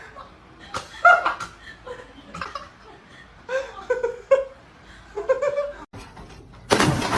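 A person laughing in short bursts, followed near the end by a louder, steady rush of noise.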